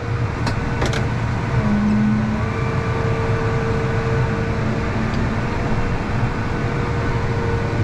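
Tractor engine running steadily, heard from inside the cab. Two short clicks come near the start, and a thin steady whine comes and goes over the engine.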